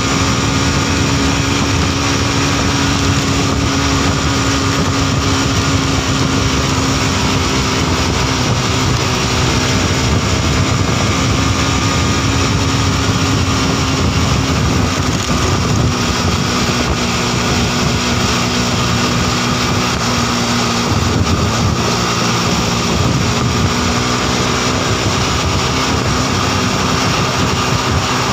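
A Modenas NS200's single-cylinder engine running steadily at highway cruising speed of about 85 km/h, with wind rushing over the microphone.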